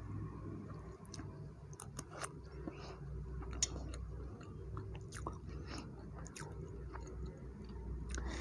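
Close-miked chewing of a mouthful of soft black forest cake, sponge and whipped cream, with scattered small wet mouth clicks.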